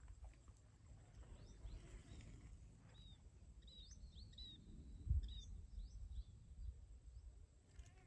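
Faint outdoor ambience with short, high bird chirps, most of them in a cluster between about three and five seconds in, over a low rumble. A low thump about five seconds in is the loudest sound.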